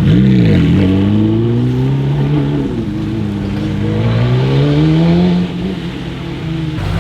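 A performance car's engine revving hard as it accelerates away. Its pitch swoops in quick blips at first, then climbs in one long pull before dropping at a gear change or lift about five and a half seconds in.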